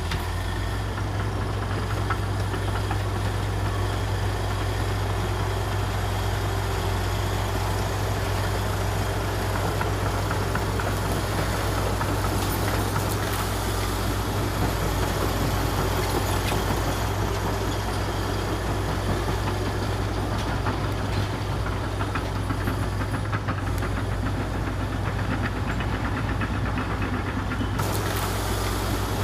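Komatsu D61EX bulldozer's diesel engine running steadily, with a rapid fine clatter throughout.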